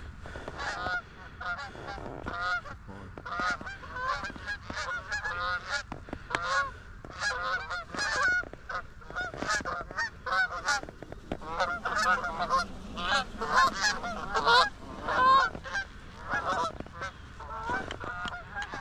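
A flock of Canada geese honking, many short overlapping calls one after another as the birds come in low over the decoys.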